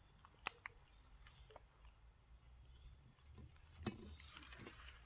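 A chorus of insects shrilling in several steady high-pitched tones, with two faint clicks, about half a second in and near four seconds.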